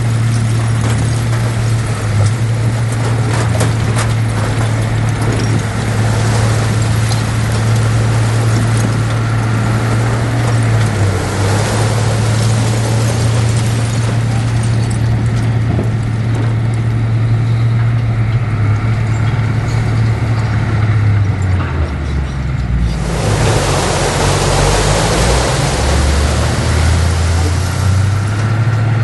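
Heavy diesel earthmoving engine running steadily under load, with rattling metal clanks. Its pitch dips about three quarters of the way through. Then a loud rushing noise lasts about five seconds.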